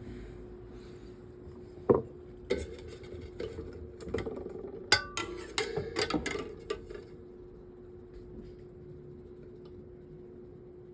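Metal parts of a table fan being handled during reassembly: a run of sharp clinks, clicks and knocks for about five seconds, then only a few faint taps.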